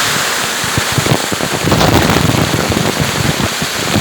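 Waterfall water pouring and splashing close by: a loud, dense rush broken by many sharp crackling splashes.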